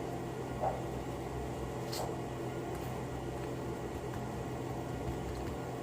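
Steady low room hum with two faint taps, one just under a second in and one about two seconds in.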